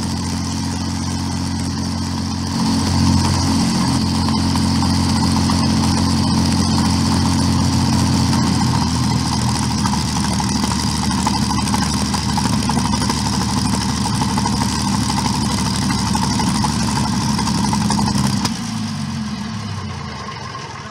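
Packard Merlin 225 V12 aero engine running on a ground run, getting louder about two and a half seconds in. Near the end its pitch falls and the sound dies away as the engine slows down.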